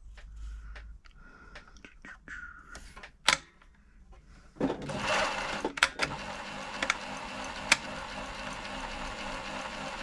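Pfaff-built Silver 1139 Tipmatic domestic sewing machine: a few light clicks and a sharp knock as it is handled, then about halfway through it starts up and runs steadily, with a few sharp clicks over the running sound.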